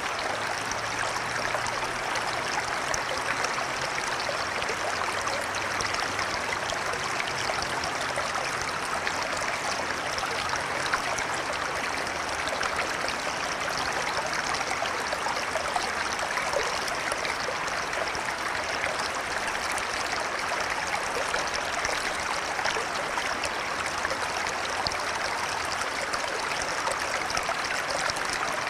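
Flowing river water running steadily over rocks, a constant rushing babble with fine splashing.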